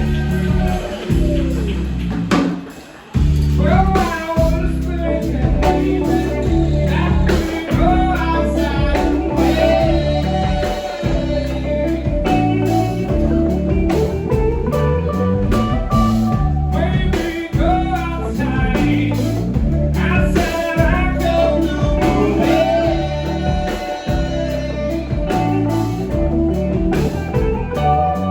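A live band playing blues, with guitar, a steady bass line and a singing voice. There is a short break in the music about three seconds in.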